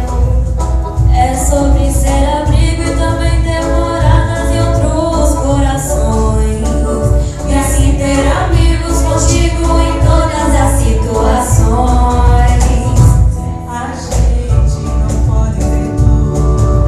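Young girls singing a Brazilian pop ballad in Portuguese over a musical accompaniment with a heavy, steady bass.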